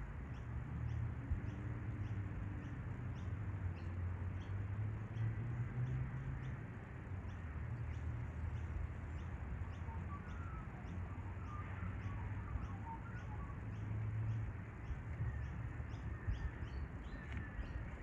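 Faint outdoor bird chirps, clustered about ten to thirteen seconds in, over a steady low rumble and a faint high ticking that repeats about twice a second.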